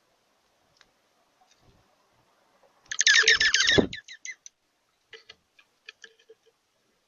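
A bird's harsh, rapid chattering call lasting about a second, about three seconds in, followed by scattered soft clicks and ticks.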